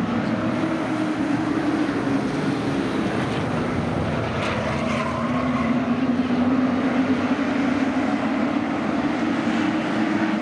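Several race trucks' engines running at reduced speed under a caution period, a steady mechanical drone whose pitch drifts slowly up and down as the field circles the track.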